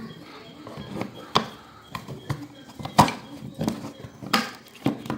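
Hand handling of small hard parts: about eight irregular knocks and clicks as pieces are set down and fitted together.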